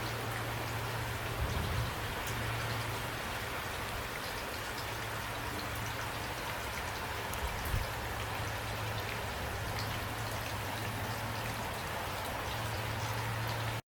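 Steady heavy rain falling, with scattered drops ticking, a low steady rumble underneath and two soft low thumps. The sound cuts out for a split second near the end.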